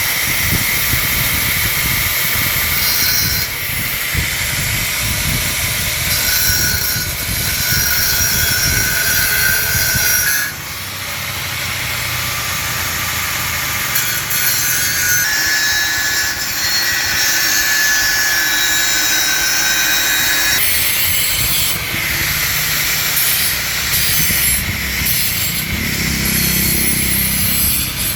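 A power tool running continuously under load, with a brief drop in level about ten and a half seconds in.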